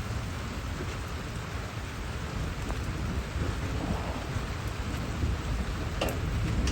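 Steady rain falling, a dense even hiss with a low rumble underneath that builds a little in the second half, and a sharp drip about six seconds in.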